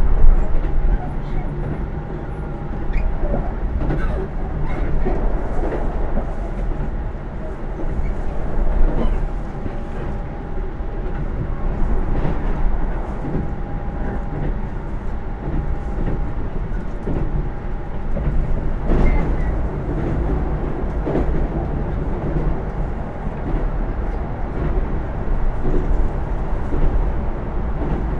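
Keisei AE100-series electric limited-express train running, heard from inside the passenger car: a steady low rumble with scattered clicks from the wheels over the track. A level high tone comes and goes now and then.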